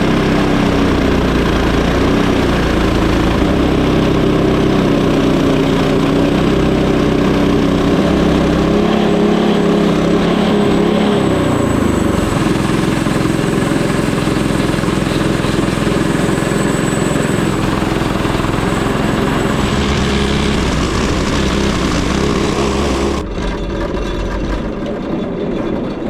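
Frontier OS18 portable bandsaw mill running loud and steady, its engine and band blade working through a hard black walnut log. The engine note shifts about eleven seconds in, and the sound eases a little near the end.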